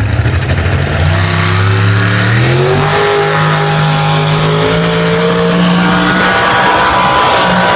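Big-block Ford engine of a modified pulling tractor revving up hard as it launches, its pitch climbing over the first few seconds and then holding high at full power through the pull.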